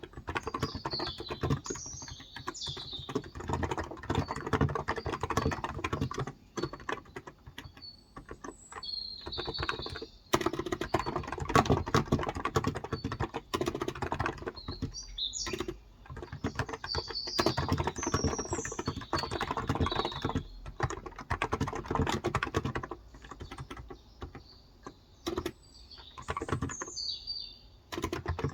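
Typing on a Cox Endeavor tenkeyless keyboard with 35 g electrostatic capacitive (non-contact) switches: quick runs of keystrokes broken by short pauses. Birds chirp several times over the typing.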